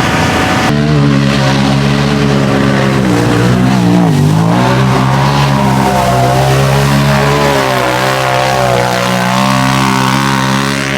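Off-road vehicle engine run at full throttle through a mud hole, holding steady revs, with a brief dip in pitch about four seconds in before climbing back.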